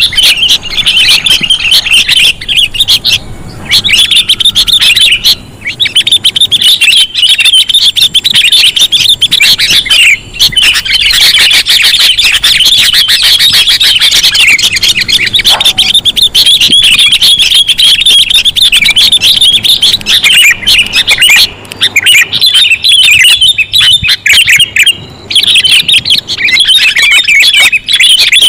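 A dense, continuous chattering of sooty-headed bulbul calls, many rapid chirps overlapping, used as a bird-trapping lure call. It drops out briefly a few times.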